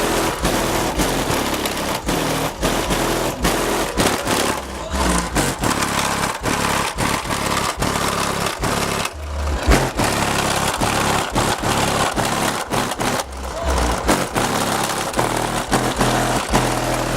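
Bass-heavy music played at very high volume through a car-audio system's bank of 12-inch subwoofers, with low bass notes that step from pitch to pitch. It is distorted, with many sharp crackles and clicks.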